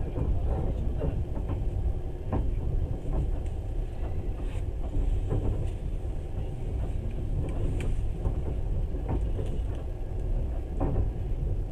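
Passenger train running at speed, heard from inside the carriage: a steady low rumble of wheels on rails, with irregular knocks and rattles.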